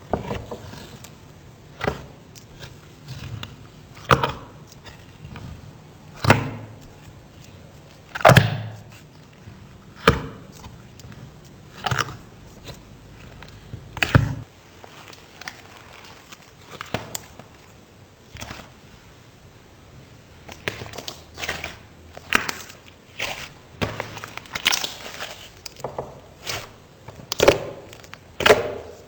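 Slime being handled for ASMR, giving sharp pops about every two seconds, then quicker, smaller pops and clicks in the second half.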